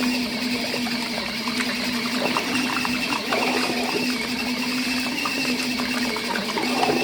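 Mini folding washing machine's small electric motor running with a steady hum, briefly dipping now and then, with irregular swishing and rattling from the washload over it.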